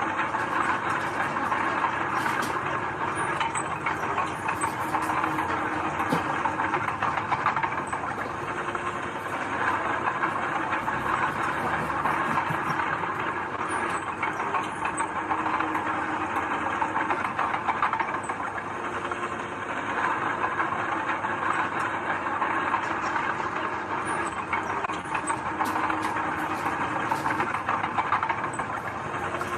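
Heavy earthmoving machinery running steadily, its engine noise continuous and even, with occasional faint clicks.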